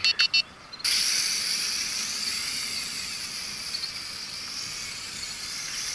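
A few short electronic beeps, then about a second in the small U807 quadcopter's motors and propellers start together: a high-pitched whine with hiss that holds on, its pitch drifting slowly up and down.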